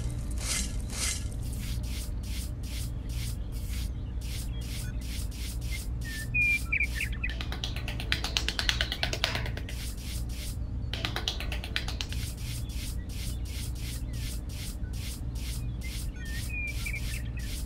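Small metal hand trowel scraping and smoothing loose sand in repeated strokes, about two to three a second, with a stretch of faster, denser scraping near the middle.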